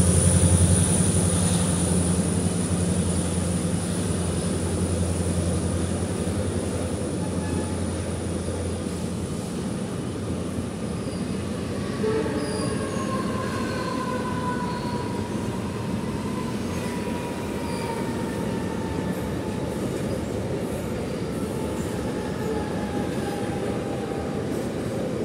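Container freight train wagons rolling past on the next track: a steady rumble of wheels on rail. A low hum fades away over the first several seconds, and from about halfway through a thin wheel squeal slowly falls in pitch.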